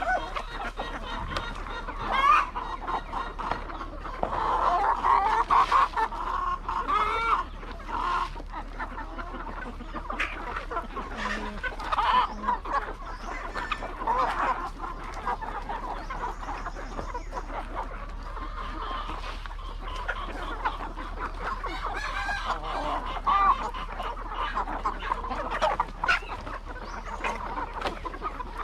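A flock of laying hens clucking and calling, many short overlapping calls that go on without a break.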